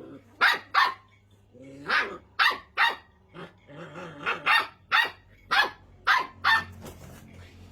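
Puppy barking in a rapid string of short, high yaps, about a dozen in all, with brief pitched growly sounds between them.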